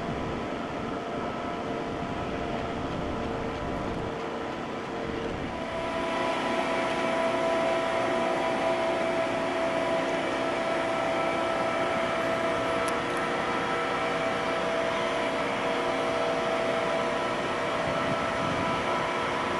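Steady hum of a tanker ship's engines and machinery, several held tones over a broad rumble. About six seconds in it grows louder as a higher tone joins and holds.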